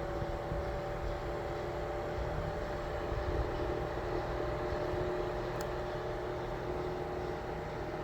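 Small electric motor running steadily with a steady whine, its pitch creeping up slightly at first, over a low rumble.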